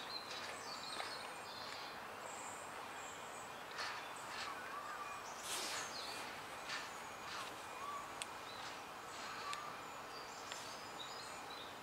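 Faint outdoor ambience with small birds chirping and whistling in short calls, and a few brief soft knocks or rustles.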